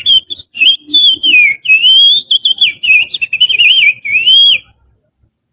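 Finger whistling imitating the chattering song of an Oriental magpie-robin (kacer): quick warbling whistled phrases rising and falling in pitch, stopping suddenly near the end.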